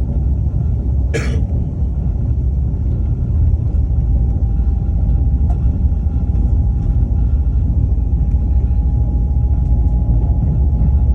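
Train running, with a steady low rumble. There is a short, sharp noise about a second in, and a faint steady whine comes in about four seconds in and holds.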